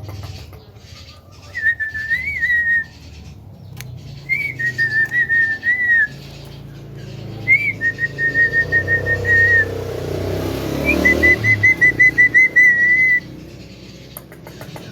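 Whistling in four similar phrases, each a short upward note followed by a quick run of repeated notes at one steady pitch, with pauses between them.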